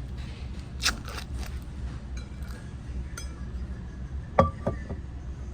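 Clicks and knocks from handling a takeaway coffee cup and butter packets, with a sharp clink that rings briefly about four and a half seconds in, over a steady low hum.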